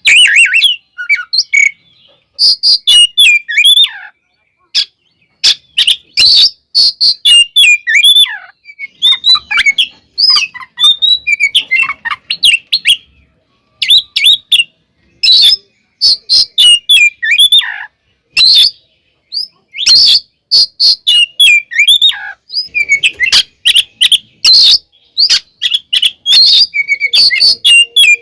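Oriental magpie-robin (kacer) singing loudly in rapid phrases of varied whistles, chirps and sharp notes, with short pauses between phrases. This is the agitated, fighting-mode song that keepers play to provoke other magpie-robins.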